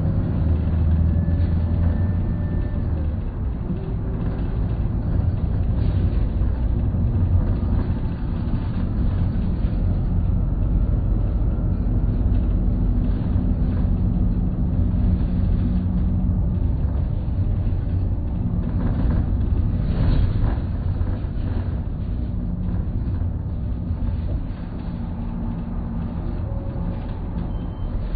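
Isuzu Erga-series city bus under way, its diesel engine running under a steady low rumble of road and drivetrain, with an automated manual transmission. The engine note shifts pitch several times as the bus changes speed, and there is a short knock about twenty seconds in.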